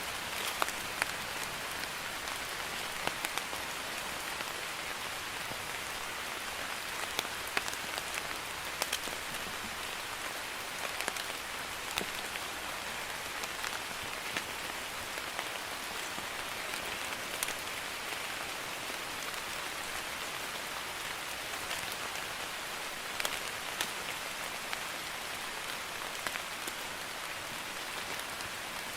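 Steady light rain (drizzle) falling, an even patter with scattered distinct drop ticks.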